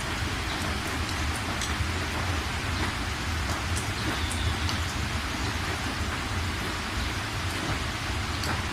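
Steady rain falling, with a continuous low rumble under it and scattered sharp drop ticks.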